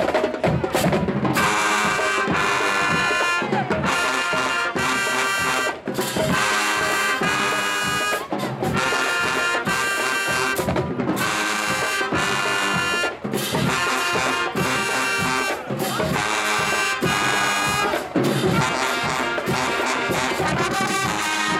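Marching band playing: the brass section sounds loud, held chords in short phrases with brief stops between them, over the drumline's beat.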